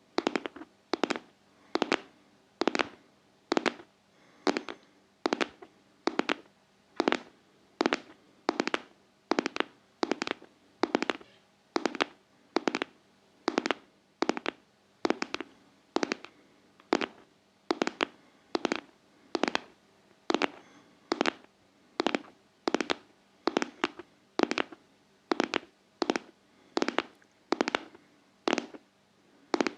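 Steady ASMR tapping: sharp taps on a hard object at an even pace, a little more than one a second.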